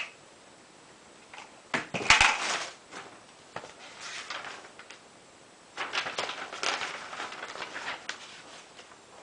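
Solar panel kit parts being handled during assembly: a loud clatter of knocks about two seconds in, then scattered knocks and a few seconds of rustling and handling noise.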